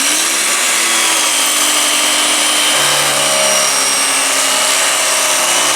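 Electric carving knife running as it slices through smoked brisket: a steady motor hum over a loud hiss, with a lower hum joining about three seconds in.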